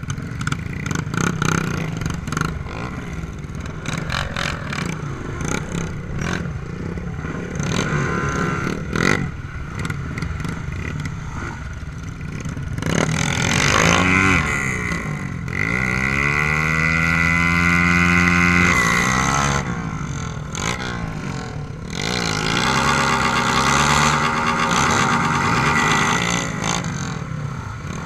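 Trail motorcycle engines running on a dirt ride. About halfway through, one engine climbs and is held at high revs for several seconds. It is loud again for a stretch near the end.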